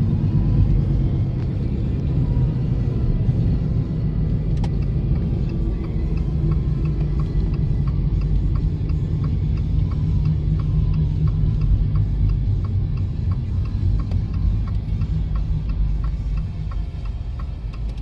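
Steady low rumble of road and engine noise inside a moving car. Through the middle comes a regular light ticking, about two ticks a second.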